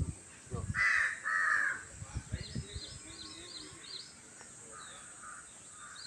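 Birds calling. Two loud, harsh calls come about a second in, and small birds chirp in short, high, repeated notes throughout.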